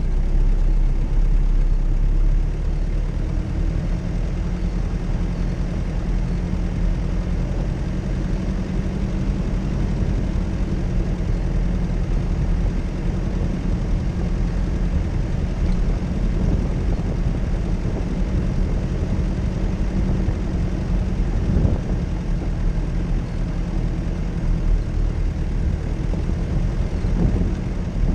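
Off-road vehicle's engine running steadily at low revs, a deep, even hum with no clear revving.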